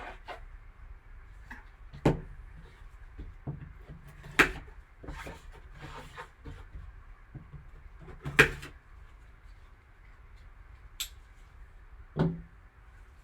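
Handling sounds as a card box and its packaging are opened: a few sharp knocks and taps, the loudest about four and eight seconds in, with light rustling between.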